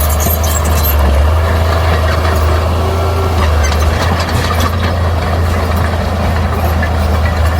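Bulldozer's diesel engine running with a steady low drone, with faint scattered clicks and clanks over it.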